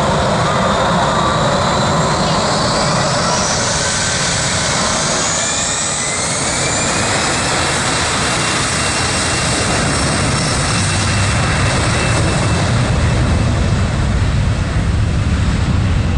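Airliner engines running loud as the plane gets ready to take off, a steady roar with high whining tones that rise in pitch a few seconds in.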